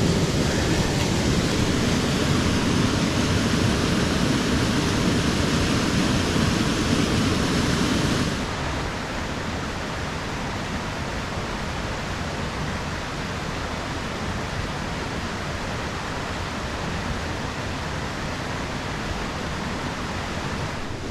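Steady rush of a small moorland stream's running water, without a break. About eight seconds in it suddenly drops to a quieter, lower-toned rush.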